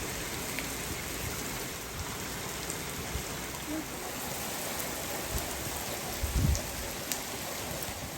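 Torrential rain pouring down steadily: a dense, even hiss with scattered sharp drop hits. About six seconds in there is a brief low rumble.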